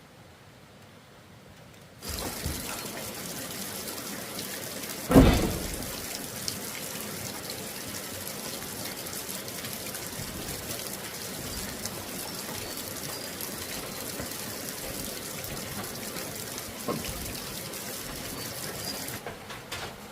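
Steady sound of running or pouring water that starts suddenly about two seconds in and stops near the end, with one loud thump about five seconds in.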